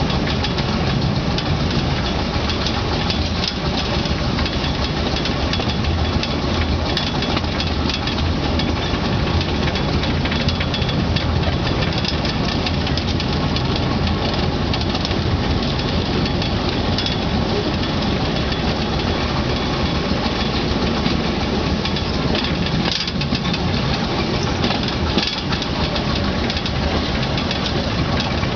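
Narrow-gauge (600 mm) field railway train in motion, heard from its open passenger wagon: the locomotive's engine running steadily along with the rumble of the wagon rolling on the track.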